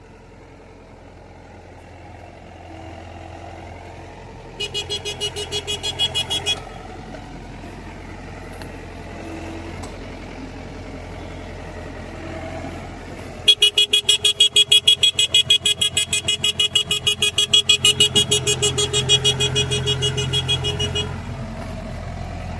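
Yanmar combine harvester's engine running steadily with a low hum. Twice a rapidly pulsing electronic beeper sounds at about five beeps a second: briefly about five seconds in, then again for about seven seconds from about a third of the way in.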